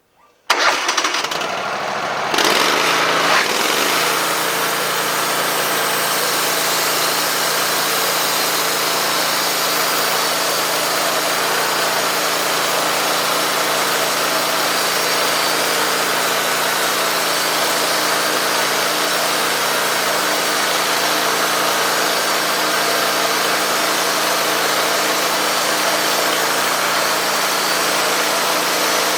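Wood-Mizer LT15 sawmill's gasoline engine starting about half a second in, picking up speed about two seconds later, then running steadily.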